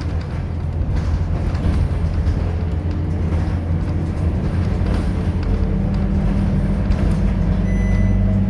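Scania K230UB city bus's five-cylinder diesel engine running under way. About five and a half seconds in, a higher steady engine note comes in as the bus pulls harder.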